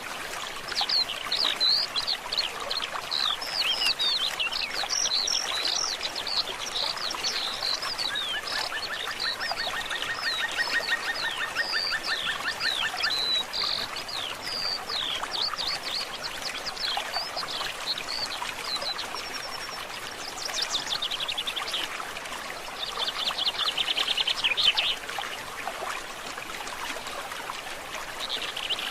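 Wild birds chirping and calling in quick, varied notes over a steady trickle of flowing stream water. A rapid, even trill runs for a few seconds about a third of the way in, and a fast burst of pulsed calls comes near the end.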